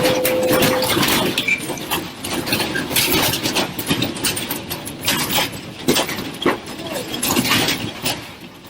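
Irregular rattling and knocking with many sharp clicks, and a short steady tone in the first second.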